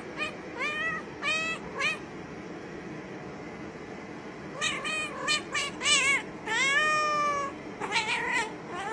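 A cat meowing repeatedly: a few short meows, a pause of a couple of seconds, then a run of meows with one longer, drawn-out meow about seven seconds in.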